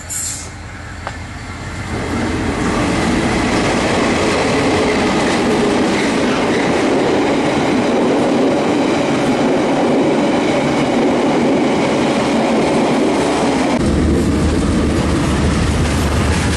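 Trains passing close by. A line of passenger carriages rolls past with steady wheel-on-rail noise and clickety-clack. About 14 seconds in, a deep diesel rumble joins as a KiwiRail DL-class diesel-electric locomotive passes, hauling a freight train.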